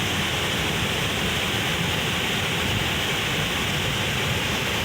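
Steady rushing of a waterfall, an even roar of falling water that holds at one level throughout.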